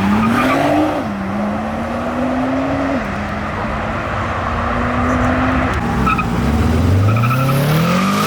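A car engine accelerating hard through the gears: its pitch climbs, drops at gear changes about one and three seconds in, holds, then climbs again near the end.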